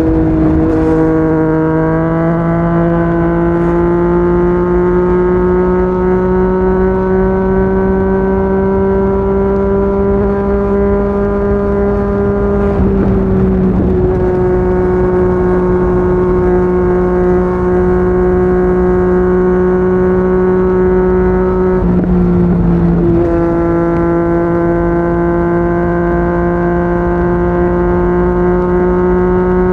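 Yamaha MT-09's three-cylinder engine through a Yoshimura R55 slip-on exhaust, running hard at road speed with its note slowly rising, with two short dips in the note about halfway through and again about three quarters of the way in. Low wind rush lies under it.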